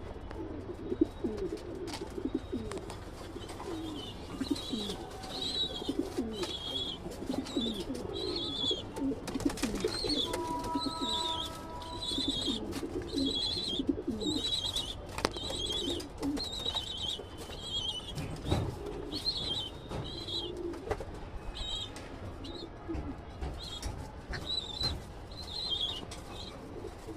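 Racing pigeons cooing continuously in a loft, with a high chirping call repeated about once a second over them and occasional light clicks.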